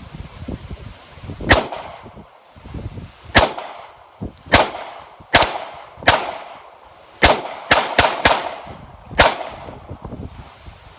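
About ten shots from a .45 ACP Glock pistol, fired at irregular intervals with a quick run of four near the middle. Each sharp crack is followed by an echoing tail.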